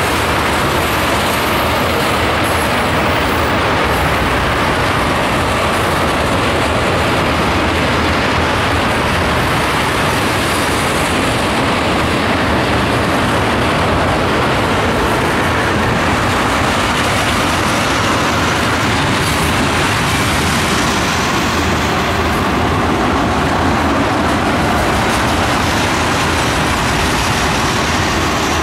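Freight train of loaded oil tank cars rolling past behind BNSF diesel locomotives: a steady rumble of steel wheels on the rails.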